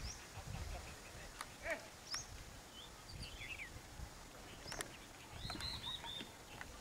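Birds chirping with short, high calls scattered through, and a quick run of several chirps about five and a half seconds in, with a few sharp clicks among them.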